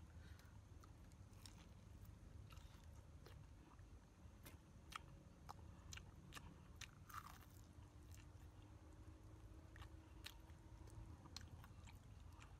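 Faint eating sounds: a person chewing and biting into fried chicken, with scattered small wet clicks and a short crackly tear about seven seconds in.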